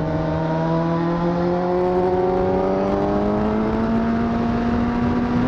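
Honda CBR1000RR SC57 inline-four engine running under way, its pitch climbing slowly and steadily as the revs build, over a steady rushing noise.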